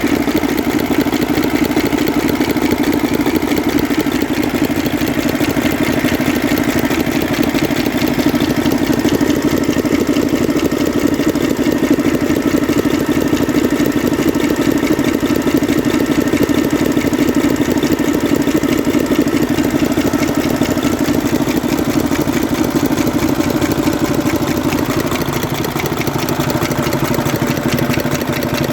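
Mercedes-Benz Actros six-cylinder diesel engine idling steadily and loudly with its exhaust silencer removed. The mechanic is chasing a firecracker-like popping from cylinder 3 that appears only while that cylinder's injector is connected.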